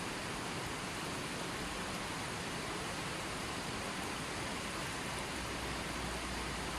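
Running water flowing steadily, a constant even rush of water.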